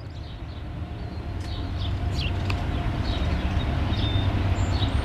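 CSX eastbound intermodal train's diesel locomotives approaching, a low engine rumble growing steadily louder.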